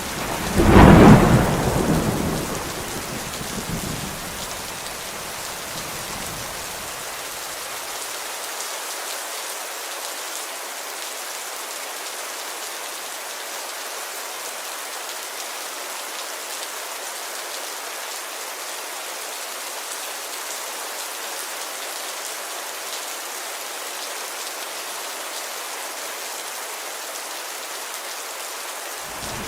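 Steady rain falling on a window, with a loud thunderclap about a second in that rumbles away over the next several seconds.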